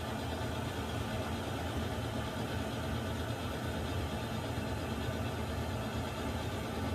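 Water heater running: a steady low rumble with an even hiss above it, unchanging throughout.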